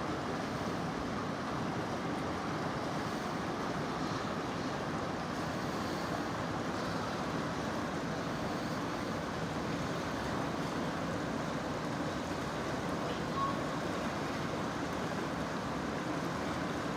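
Merced River water rushing steadily.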